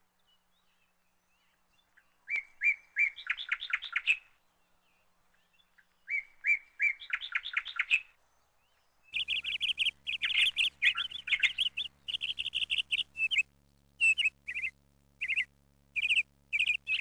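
Bird calls: two short phrases of quick chirping notes, each speeding up as it goes. From about halfway on, a long run of repeated high chirps over a steady low hum.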